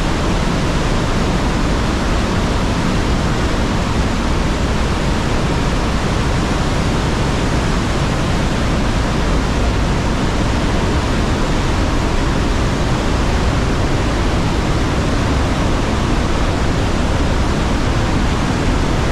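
Trümmelbach Falls, a glacier waterfall, pouring through its rock gorge: a loud, steady, unbroken rush of water.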